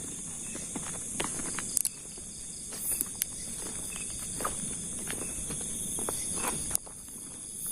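Footsteps rustling through undergrowth, with irregular snaps and brushing of leaves and twigs, over a steady high chirring of night insects.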